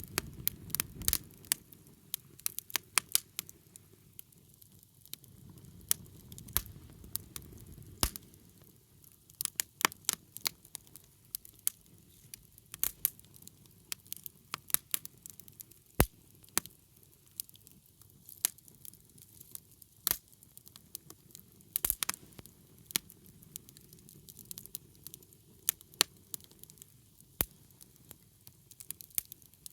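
Wood fire crackling, with irregular sharp pops and snaps from the burning wood over a soft low rush of flame.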